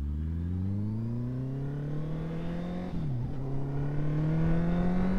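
Honda CBR650 inline-four with an aftermarket exhaust accelerating from a stop, the engine note rising steadily. About three seconds in it briefly drops for an upshift, then climbs again.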